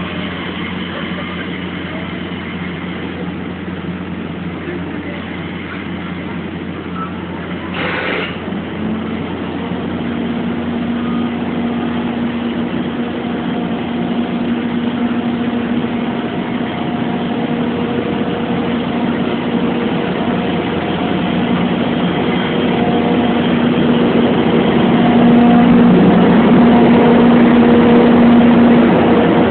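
Electric locomotive hauling a passenger train out of the station at departure: a steady mechanical hum from about nine seconds in, growing louder as it draws closer. There is a brief hiss about eight seconds in.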